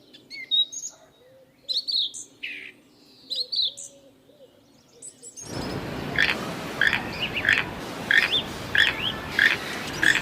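Small birds chirping in short, quick repeated calls. About halfway through, a steady hiss comes in under the calls, which then repeat about twice a second.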